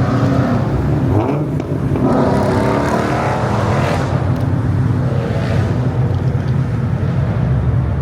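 Loud car engine running with a steady low drone, its pitch gliding briefly a couple of seconds in.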